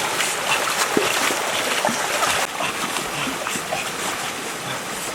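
Water splashing and trickling, with scattered small knocks; the sound changes abruptly about halfway through.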